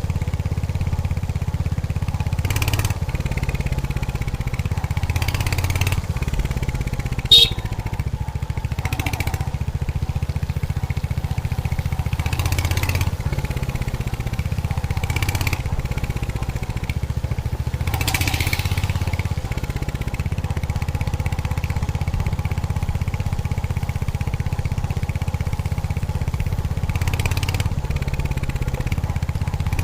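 Royal Enfield Hunter 350's single-cylinder engine and exhaust running steadily while riding, with swells of road and wind noise every few seconds. A brief sharp high-pitched sound stands out as the loudest moment, about seven seconds in.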